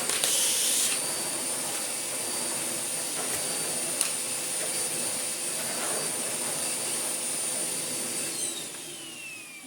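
Miele Blizzard CX1 bagless vacuum cleaner running with a steady high whine, with a brief louder hiss just after the start. Near the end the motor is switched off and winds down, its whine falling in pitch as the sound fades.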